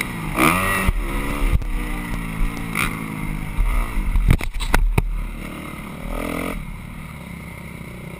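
Motocross bike engine revving, then its pitch and loudness slowly falling away as it fades, with a few sharp knocks about halfway through.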